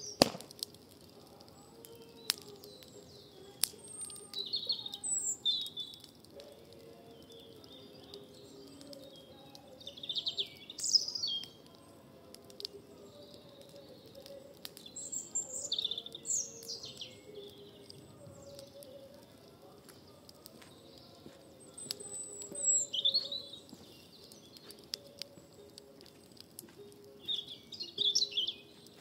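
Birds chirping in short high phrases every five seconds or so, with a few sharp pops, the loudest one right at the start, over a faint steady hum.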